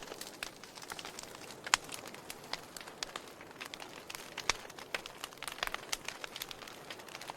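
Wood logs burning in a fireplace: irregular sharp crackles and pops over a soft steady hiss of flame, with a louder pop a little under two seconds in.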